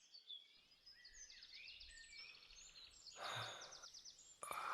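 Birds chirping and trilling in quick repeated phrases, faint and continuous. A short, soft noise swells up about three seconds in.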